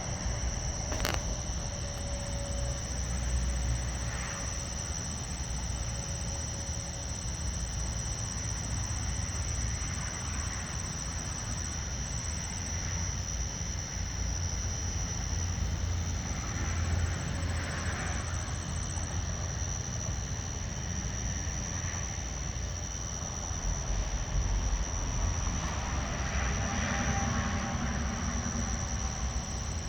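Steady high-pitched chorus of night insects trilling over a low rumble that swells a few times, with a single sharp click about a second in.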